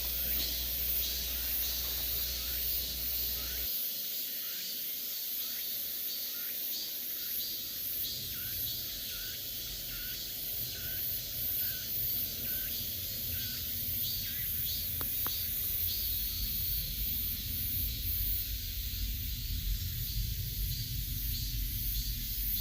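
Cicadas singing in a steady, high, pulsing summer chorus. Over it, a bird repeats a short rising call a little over once a second through the first half or so.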